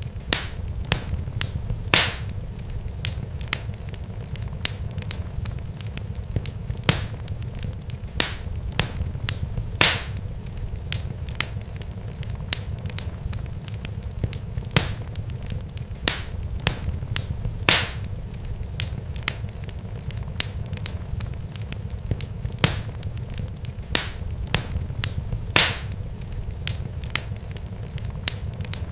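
Crackling fire: frequent sharp pops and snaps over a steady low rumble, with a louder pop about every eight seconds.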